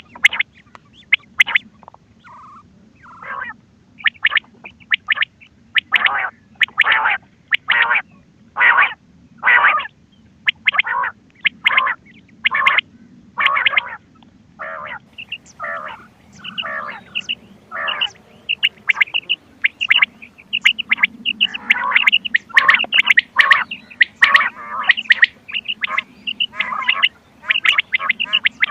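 Quail calling in rapid runs of short, repeated notes, sparser at first and dense and overlapping through the second half, from a cassette recording of quail calls used as a hunting lure, with a faint steady hum underneath.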